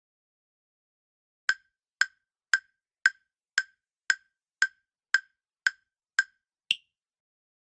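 Quiz countdown-timer sound effect: eleven sharp wood-block-like ticks, about two a second, starting about a second and a half in. The last tick is higher-pitched than the rest.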